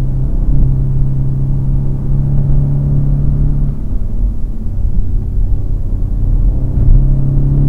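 Audi S3 8V's turbocharged 2.0 TFSI four-cylinder engine pulling at speed, heard from inside the cabin with road rumble. The engine note eases off briefly about four seconds in, then comes back and climbs in pitch near the end as the car accelerates again.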